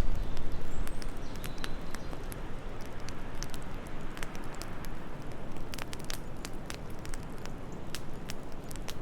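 Wood fire crackling in a fireplace, with frequent irregular sharp pops over a steady low rush of wind; the low rush is heavier in the first second or so.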